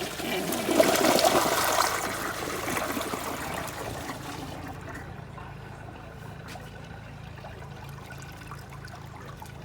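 2017 WaterRidge dual flush toilet flushing: a loud rush of water about a second in that dies away over a few seconds, leaving a quiet trickle as the bowl refills.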